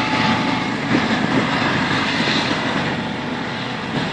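Helicopter running for take-off: engine and rotors at close range, a steady dense rush of noise over a rapid low beat of the rotor blades.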